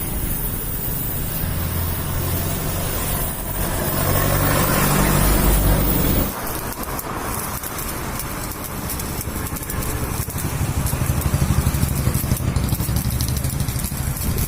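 An engine running steadily with a low hum. It swells about four seconds in, then drops abruptly about six seconds in to a rougher, crackling hum.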